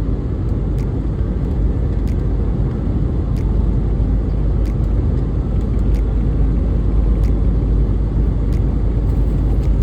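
Steady low rumble of a 2022 International semi truck driving, its engine and road noise heard from inside the cab, with faint ticks about once a second.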